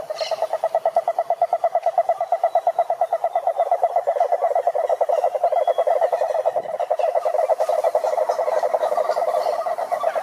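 Frogs calling in a pond: a loud, continuous, rapidly pulsing trill that swells sharply right at the start and keeps going, with other frogs calling faintly behind it.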